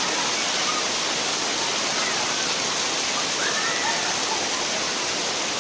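Waterfall: the steady, dense rush of falling water, with a few faint voices or calls almost buried under it.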